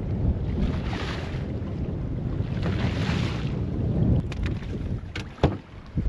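Wind buffeting the microphone on a fishing boat at sea, with water washing against the hull in swells every couple of seconds. A few sharp knocks come toward the end.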